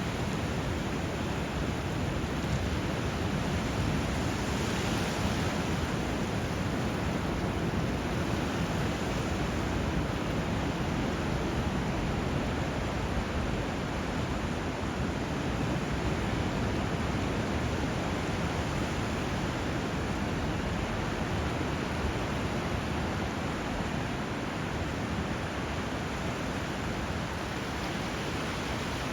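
Steady rushing water where a river flows into the sea: an even hiss, without separate wave breaks or birdsong standing out.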